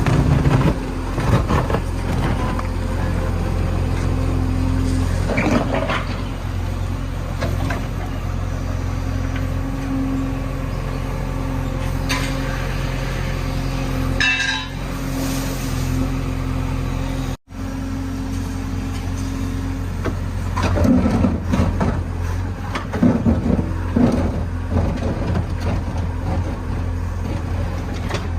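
JCB 3DX backhoe loader's diesel engine running steadily under working load, with bursts of scraping and clanking from the bucket digging and a short high squeal near the middle. The sound cuts out for an instant a little past halfway.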